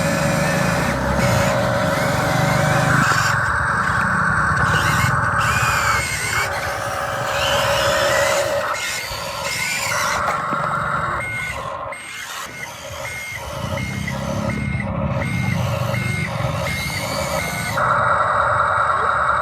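Radio-controlled construction machines with a steady electric motor and gear whine and a low engine-like rumble. Through the second half a reversing beeper sounds evenly, about one and a half beeps a second.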